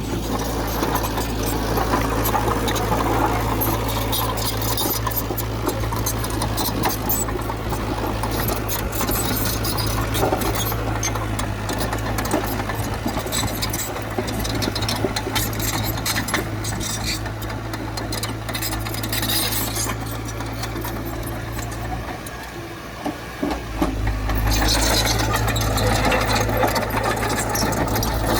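Heavy earthmoving machine's diesel engine running steadily under a rapid metallic rattle, dipping briefly about three quarters of the way through and then running louder again.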